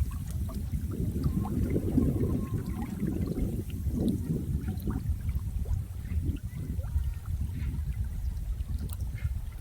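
Running water: a steady low rush with small splashes and gurgles scattered through it.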